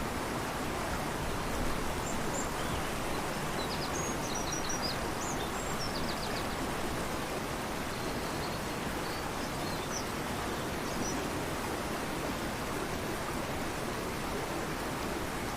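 Steady rush of a fast-flowing river, with faint bird chirps and short trills high above the water noise, mostly in the first half.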